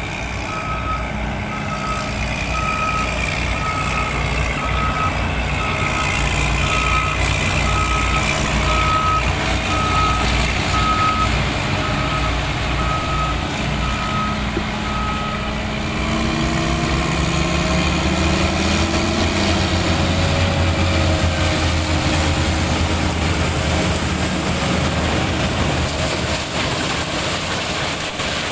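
A heavy diesel machine's reversing alarm beeps a little under once a second over the engine's steady drone. The beeping stops about halfway through, and the engine speed then rises and falls as the machine works under load.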